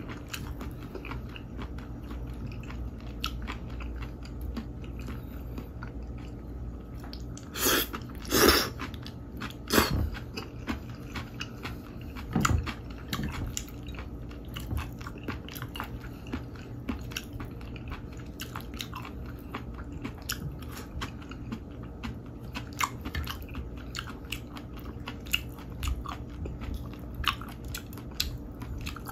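Close-miked chewing of chopped live octopus with julienned cucumber: a steady run of small wet mouth clicks and bites, with a few louder bursts about eight and ten seconds in.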